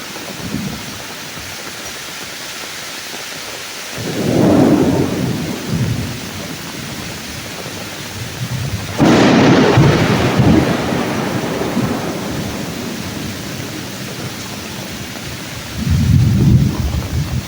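Rain pouring steadily on the woods, with thunder: a rumble about four seconds in, a sudden loud crack of thunder about nine seconds in that rolls on for several seconds, and another rumble near the end.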